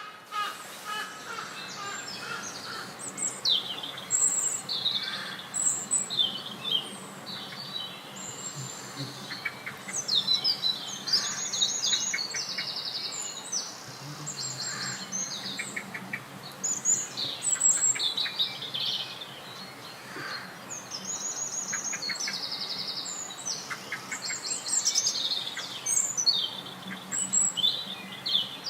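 Small songbirds chirping and singing, with high whistled notes and several fast trills that overlap one another throughout.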